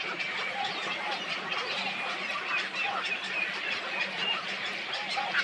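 Dense chorus of many birds calling at once, short overlapping calls, with a faint steady hum beneath.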